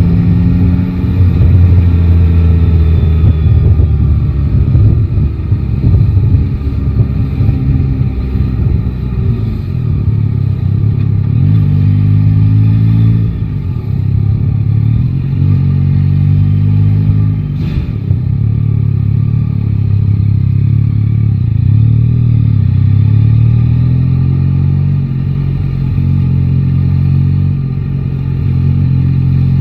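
Yamaha Tracer 9 GT's three-cylinder engine running on the move, its pitch rising and falling several times as the rider accelerates and eases off.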